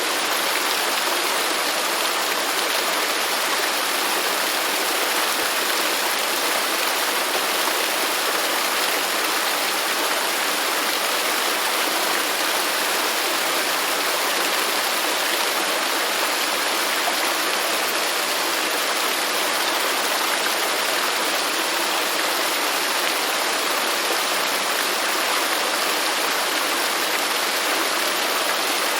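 Waterfall: water falling and splashing in a steady, even rush, mostly hiss with little deep rumble.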